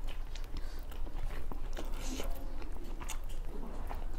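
Close-up eating sounds: chewing, lip smacks and small wet clicks from people eating rice and pork curry with their hands, over a steady low hum.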